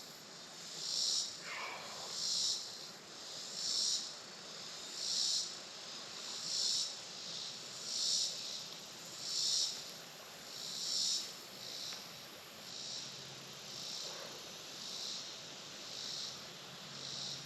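A chorus of insects buzzing high and steady, swelling in a regular rhythm about once every second and a half, the swells growing weaker toward the end.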